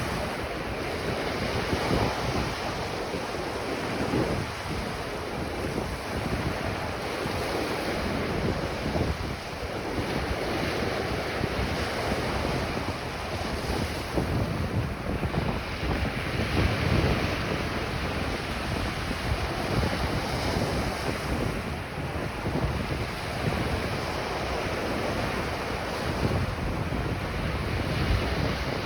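Ocean surf breaking and washing on a beach in slow, repeated surges, with wind rumbling on the microphone.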